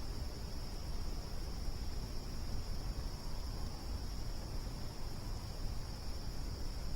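Crickets chirping in a steady, continuous high chorus over a low rumbling noise.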